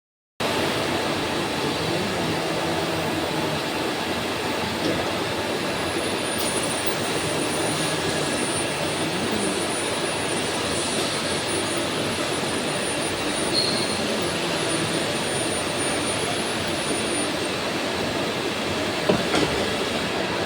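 Steady din of industrial factory machinery. A faint high-pitched whine comes in about six seconds in and stops a few seconds before the end.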